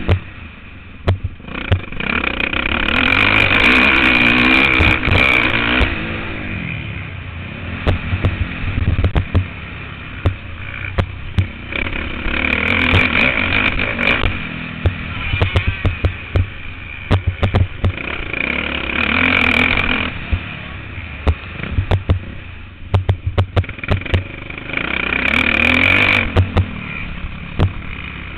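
Motocross bike engine heard through an on-board camera, revving hard four times with lower-revving stretches between. Many sharp knocks and rattles run through it.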